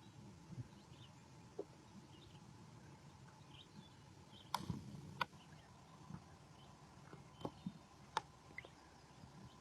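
Faint outdoor ambience: scattered short bird chirps over a low steady hiss, with a few sharp clicks, the loudest around the middle and again later on.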